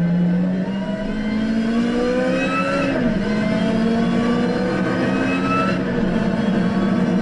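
Lotus Exige engine under full throttle, heard from inside the cabin: its pitch climbs steadily through the revs, falls with an upshift about three seconds in, climbs again and shifts up once more about six seconds in.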